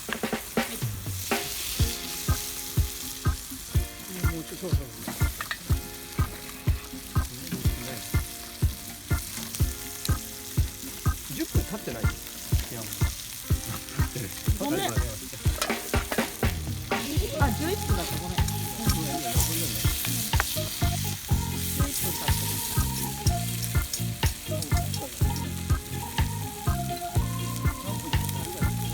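Food sizzling and frying in a pan, with some stirring, under background music that has a steady beat of about two thumps a second.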